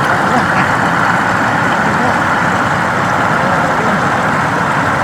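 Steady, loud rush of flowing floodwater.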